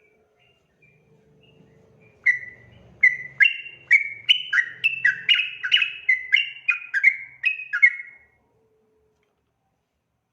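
Yellow-vented bulbul song: a long, quick run of bubbly chirping notes that step up and down in pitch, starting about two seconds in and stopping abruptly about two seconds before the end.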